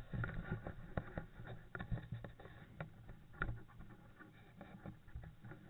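Irregular knocks and rustling close to the microphone, loudest in the first three and a half seconds and then fading.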